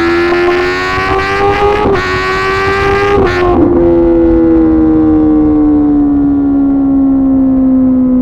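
2024 Kawasaki ZX-10R's inline-four through an SC-Project CRT exhaust, pulling under throttle with its note rising slowly and breaking briefly about two seconds in and again just after three. The note then falls steadily as the bike slows.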